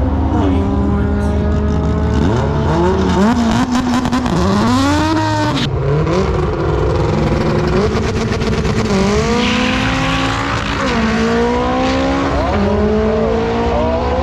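Race car engines revving hard at a drag strip, pitch climbing and falling several times as they accelerate and shift, with a sharp break about six seconds in.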